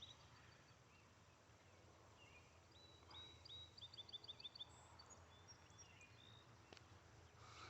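Faint rural outdoor quiet, with a small bird giving a quick run of about eight short high chirps a few seconds in.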